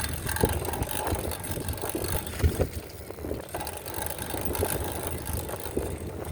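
Wind rumbling and buffeting on the microphone of a moving bicycle, with the hiss of rain over it.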